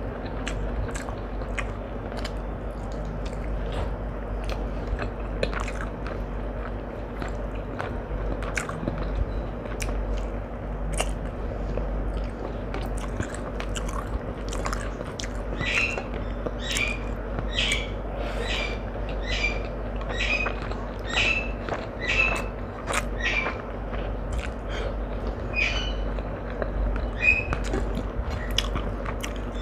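Close-miked chewing and biting: wet mouth clicks and smacks of someone eating fried rice and chilli chicken by hand. About halfway through a bird starts chirping, roughly once a second, for several seconds.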